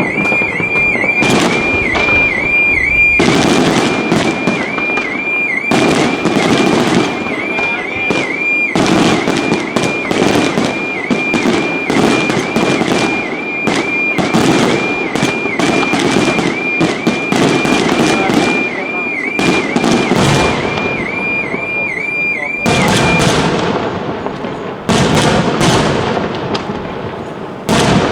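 Professional aerial fireworks display: dense, rapid volleys of shell bursts and crackling, almost without a break. A high warbling tone pulses about three times a second until the volleys thin out briefly near the end, and then the bursts pick up again.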